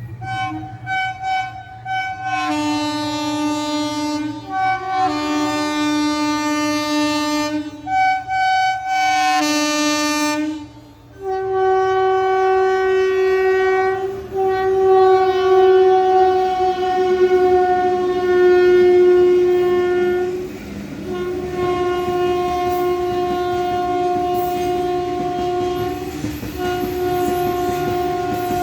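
Horns of twin WAG-7 electric locomotives blowing: a string of multi-tone blasts that switch between notes for the first ten seconds or so, then long held blasts with brief breaks, over the running noise of the train on the rails.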